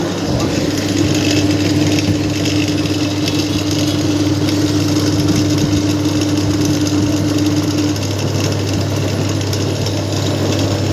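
Suzuki Ertiga hybrid engine idling steadily, with a steady hum on top that stops about eight seconds in.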